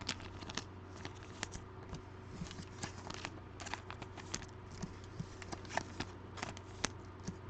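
Trading cards and pack wrappers being handled, with light, irregular clicks and rustles as cards are flipped through. A faint steady hum sits underneath.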